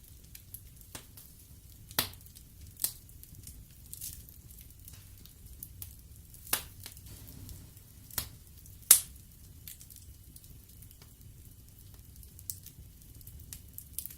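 Wood fire burning in a fireplace, crackling with irregular sharp pops and snaps over a low, steady rumble of flames; the loudest pops come about two seconds in, midway, and near nine seconds.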